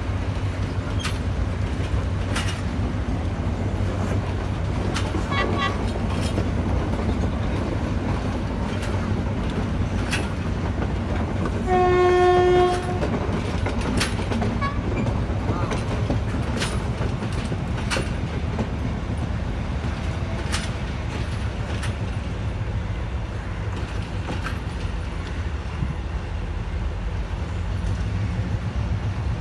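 Passenger coaches of a departing express rolling past on jointed track: a steady rumble with scattered clicks of wheels over rail joints. A single train horn blast, about a second long, sounds about twelve seconds in.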